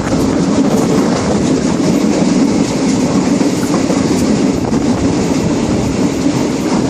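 Train running along the rails, heard from on board: a loud, steady rumble of wheels and carriage with faint repeated clacks.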